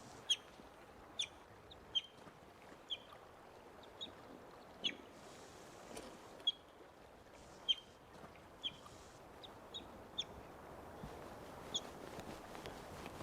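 Young North American river otter giving short, high-pitched chirping calls, about one a second and irregularly spaced: the frantic calls of a lost, injured youngster crying for its family.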